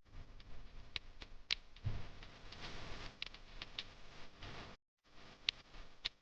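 Scattered sharp clicks and ticks over faint rustling, with a sudden half-second drop to silence a little after the middle.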